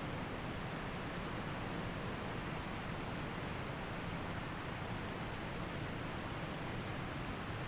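Waterfall rushing: a steady, unbroken water noise.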